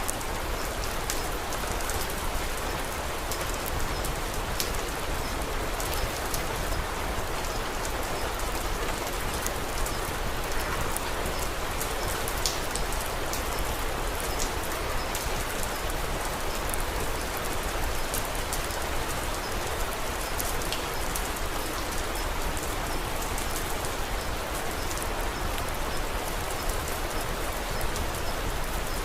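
Steady rain falling, a dense even hiss with many small scattered ticks of individual drops.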